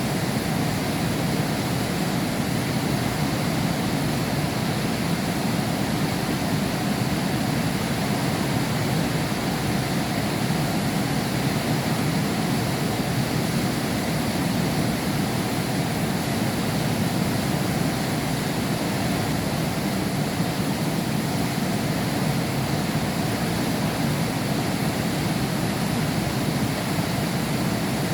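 Heavy rain falling steadily, heard from behind window glass as an even, unbroken hiss with a heavy low rumble.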